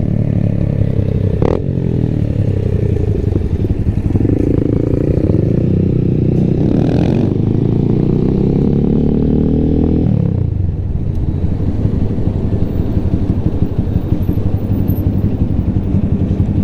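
Small motorcycle engine running while riding, pulling harder about four seconds in, holding speed, then easing off about ten seconds in as the bike slows. There is a single sharp click about one and a half seconds in.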